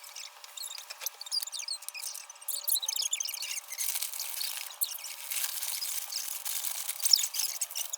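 Packing paper crinkling and rustling as it is crumpled and wrapped around a bottle, in irregular crackles that grow busier about three seconds in.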